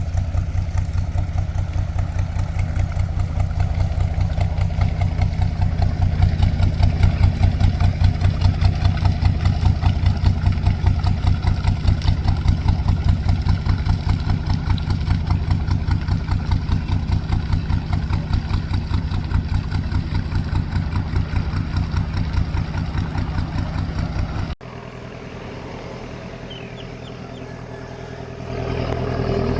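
A canal boat's engine running steadily with a fast, even chugging pulse. About 25 seconds in it drops abruptly to a quieter engine hum, which grows louder again near the end.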